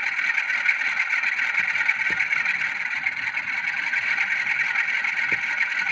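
Sound decoder of a Graham Farish N gauge Class 47 model playing the recorded Sulzer diesel engine sound revved up while the loco stands still, a steady drone through the model's small onboard speaker with little bass.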